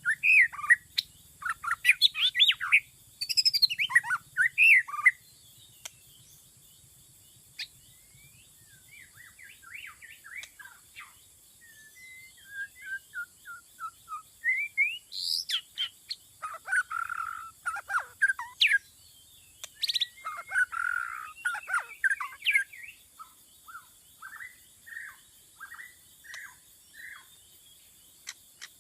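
White-rumped shama singing: a varied string of whistled phrases in bursts with short pauses, ending in a run of short, evenly spaced notes, about two a second.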